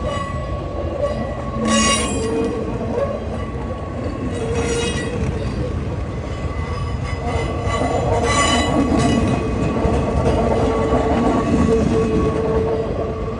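Freight train rolling past, its steel wheels grinding on the rails with a steady squeal. Three short, sharper squeals break through.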